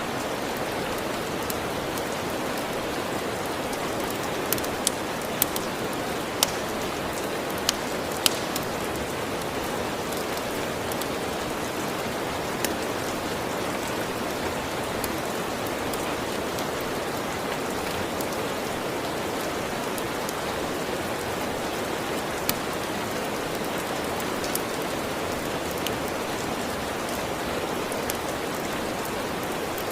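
Steady rain falling, with sharp pops and crackles from a wood fire standing out now and then, several close together a few seconds in.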